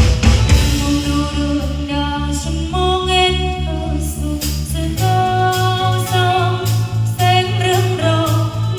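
Live band music: held chords that change every two to three seconds over a bass pulsing about three times a second, with no words sung.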